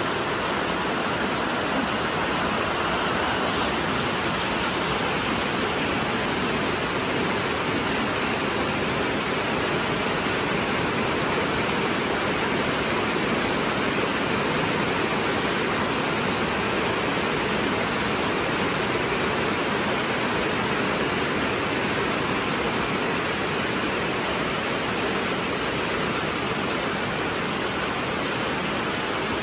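Heavy rain falling steadily on leaves and grass: an even, unbroken hiss.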